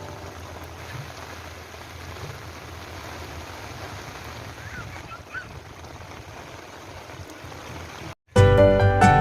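Heavy rain pouring steadily, an even rushing hiss with a low rumble underneath. Near the end it cuts off abruptly and music begins.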